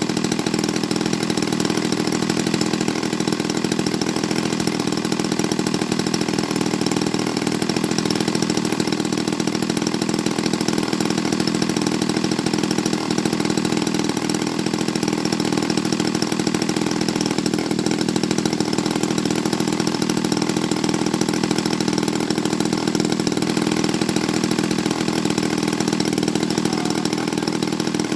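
Gasoline engine of a radio-controlled model airplane running at a steady speed, with no rise or fall in pitch.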